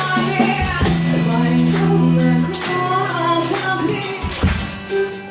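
Live rock band playing the closing bars of a song: drum and cymbal hits at a steady beat over held bass notes, with guitar and a singing voice.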